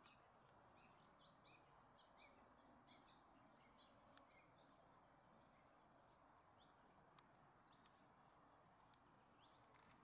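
Near silence outdoors: faint, scattered bird chirps over a low background hiss, with a faint click about four seconds in.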